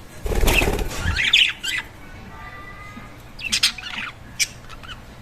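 Budgerigars with a burst of wing flapping lasting about a second near the start, followed by short chirps in two clusters, the second about three and a half seconds in.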